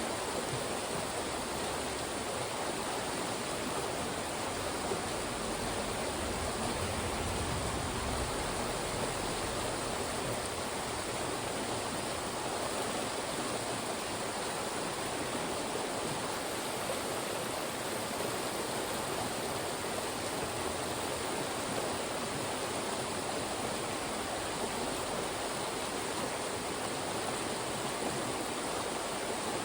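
Fast-moving mountain stream rushing through funnels of rock: a steady, unbroken wash of water.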